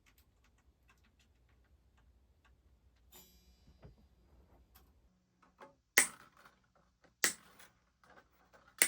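Old strings being taken off a baritone electric guitar. First comes a faint, rapid ticking, then a brief metallic string rattle, then three sharp, loud clicks spaced about a second apart.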